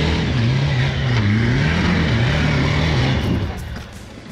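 Off-road 4x4's engine revving, its pitch rising and falling several times, then dropping away about three and a half seconds in.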